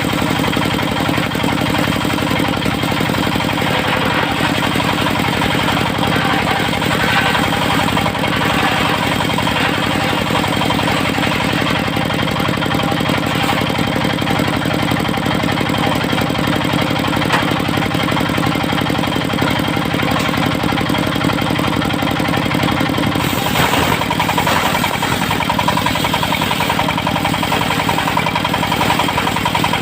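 Engine of a portable circular-saw sawmill running steadily, its sound shifting somewhat late on.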